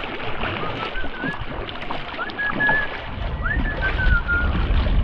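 Kayak paddling, with water splashing and sloshing around the hull and paddles. Over it, a bird whistles a run of calls, each sweeping up and then wavering on a clear note, several times over.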